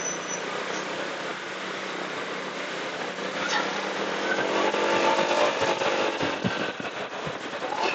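Motorcycle engine running steadily under road and wind noise while riding in traffic. A louder engine sound swells in the middle and fades, as another vehicle passes.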